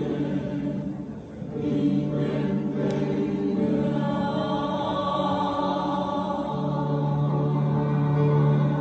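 A choir singing in parts, easing off briefly about a second in, then holding long sustained notes.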